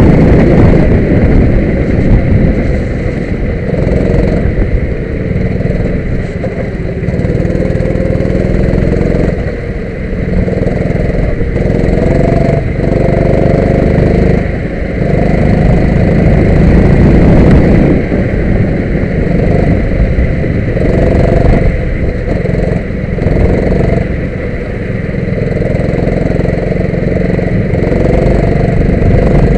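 Go-kart engine running hard, its pitch rising under acceleration and dropping off again, over and over, as the kart is driven around the track.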